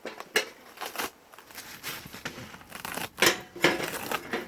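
Camping gear being handled: scattered rustling and crinkling with a few small knocks, the loudest about three seconds in.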